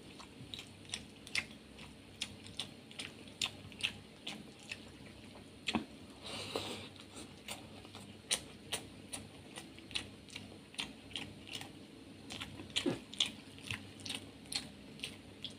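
Close-miked wet chewing of rice and dal: a steady run of short, sticky mouth clicks and smacks, about two to three a second, with a softer stretch of noise a little past the middle.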